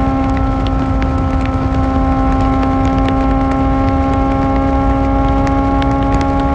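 Kawasaki ZX-4R inline-four engine with an Akrapovic exhaust running at steady, unchanging revs: a constant hum with no rise or fall in pitch.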